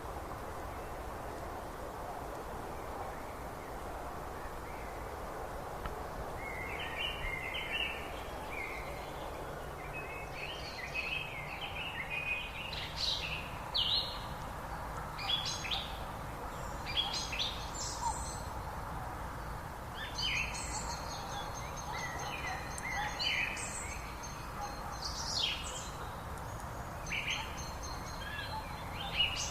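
Songbirds singing over a steady rushing background: short bright chirps, quick sweeps and trills that begin about six seconds in and keep coming in irregular phrases.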